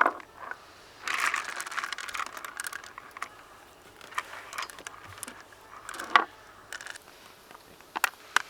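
Wooden shogi pieces being clicked down and moved on the board, sharp separate clicks with a louder one about six seconds in and a quick run near the end, with some rustling handling noise about a second in.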